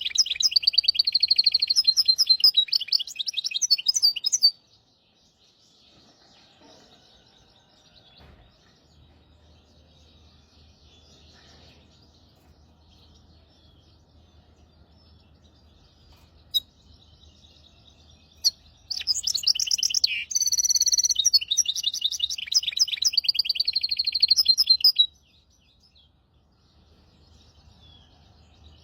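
Hybrid finch singing in two loud spells of fast trilled song, one at the start lasting about four seconds and one from about nineteen seconds in lasting about six seconds. Between the spells there are only faint, scattered chirps.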